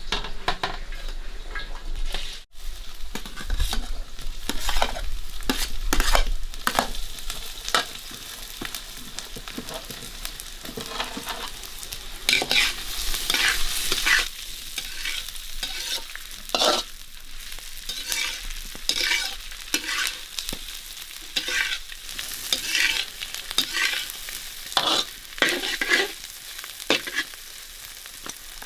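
Food frying in a pan and being stirred: a steady sizzle with irregular scraping strokes of the spatula against the pan.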